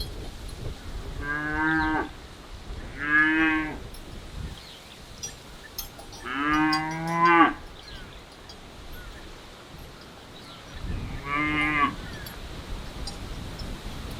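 Cattle mooing: four separate moos, the third one longer than the others.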